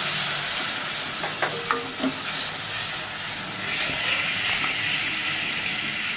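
Onion-and-spice masala frying in oil in a pan, sizzling steadily as a splash of added water cooks off. A few light clicks of a spoon stirring against the pan come between about one and two seconds in.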